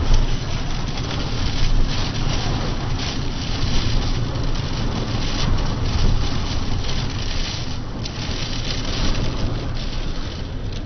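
Storm wind buffeting the microphone: a steady, dense rush of noise, heaviest in the low end.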